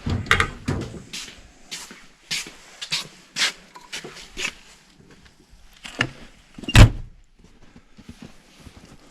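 Metal tools clattering and clinking while a toolbox is rummaged through for a smaller crescent wrench, with a string of knocks and a heavy thump about seven seconds in.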